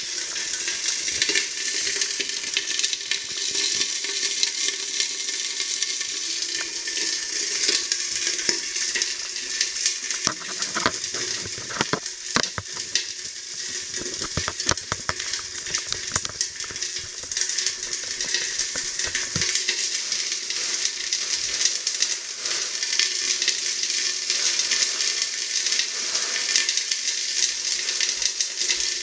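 Chicken legs frying in a pan: a steady sizzle with dense fine crackling of fat.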